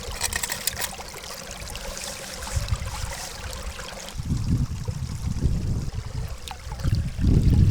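Strong wind buffeting the microphone in irregular low gusts over a steady rushing noise, with a few light ticks in the first second and the loudest gusts near the end.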